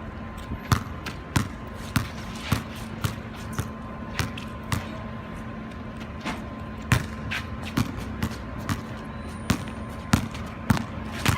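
Basketball being dribbled: a run of sharp bounces about twice a second, pausing briefly a little past the middle before the dribbling resumes.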